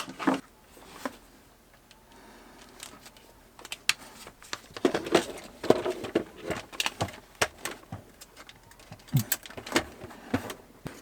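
Irregular clicks, taps and small rattles of hands working with tools and plastic fittings while fastening wiring to a wall with screw-mount zip ties. The clatter is sparse for the first few seconds and gets busier about halfway through.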